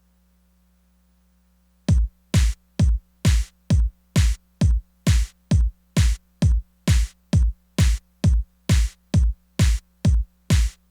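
Korg Electribe Sampler ES2 playing one electronic kick-drum sound on its own, repeated evenly about twice a second. The run starts about two seconds in and gives about twenty hits. Each hit drops quickly in pitch into a deep thud and has a hissy top.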